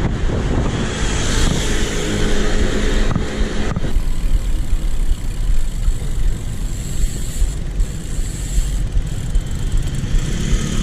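Wind buffeting a GoPro action camera's microphone while riding a bicycle along a road with traffic. A motor vehicle's engine can be heard passing about two to four seconds in.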